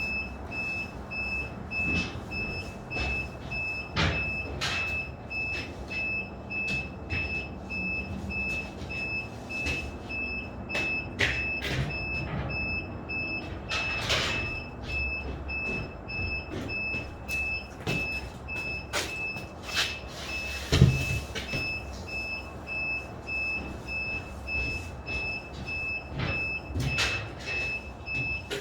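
Construction-site noise: a repeating high electronic warning beep keeps going throughout, over a low rumble and scattered knocks and clatter, with one sharp bang about 21 seconds in.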